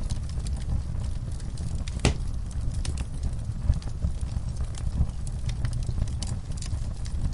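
Fire crackling with irregular sharp pops and snaps, one louder pop about two seconds in, over a steady low rumble.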